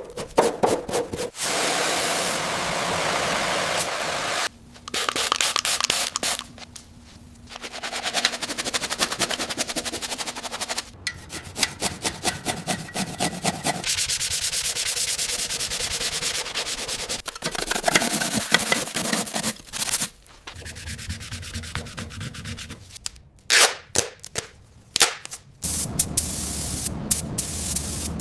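Abrasive sanding and rubbing on the rusty motorcycle's parts in quick, repeated strokes. It comes as a string of short clips with abrupt cuts between them, a few of them near-silent gaps.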